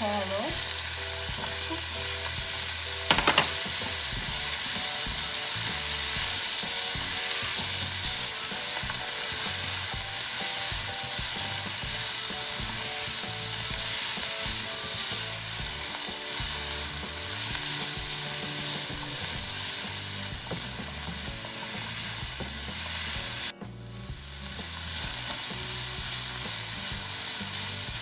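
Asparagus and sliced carrots sizzling in oil in a ceramic-lined frying pan while being stirred with a silicone spatula, a steady frying hiss. There is a short, sharp clatter about three seconds in, and the sizzle drops out for an instant near the end.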